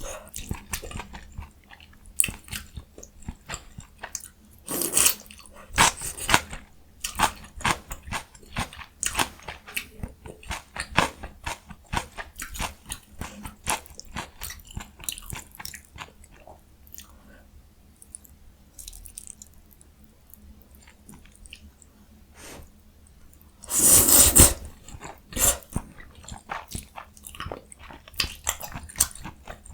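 Close-miked eating: a person chewing and crunching through jjajang ramyun and young radish kimchi, a steady run of short crunches and mouth clicks. There is a quieter stretch past the middle, then one louder, longer noisy mouthful about three-quarters of the way through.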